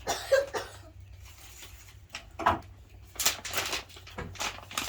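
Plastic wrapping crinkling and rustling in irregular short bursts as it is pulled off a rolled rug.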